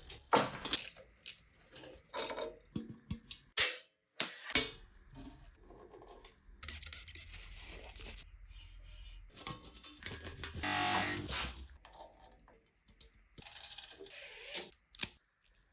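Irregular metallic clicks, clinks and knocks with short scraping or rasping stretches, the sound of small bicycle parts and tools being handled in a workshop.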